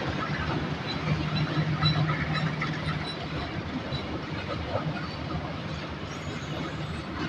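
Diesel-hauled passenger train moving slowly into a station: a steady low engine hum from the locomotive fades about three seconds in, leaving the rumble of the rolling carriages.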